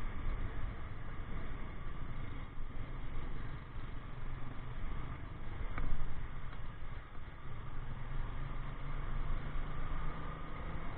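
Motorcycle on the move, heard from the rider: a steady engine hum under rumbling road and wind noise, with one short click about six seconds in.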